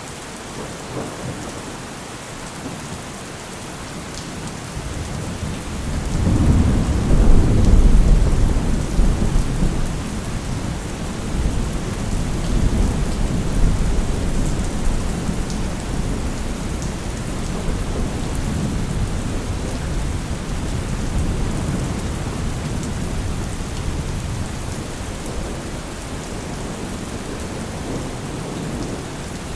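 Steady rain with a long roll of thunder. The deep rumble builds about five seconds in, is loudest a couple of seconds later, then rolls on and slowly fades under the rain.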